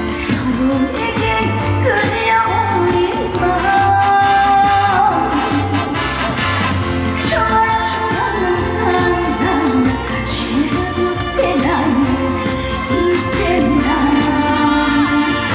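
A trot song performed live: a woman singing over a backing band with a steady bass beat.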